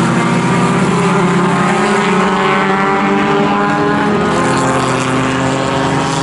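Racing engines of pre-1961 sports racing cars running hard at high revs, a steady engine note whose pitch drifts and shifts about four seconds in.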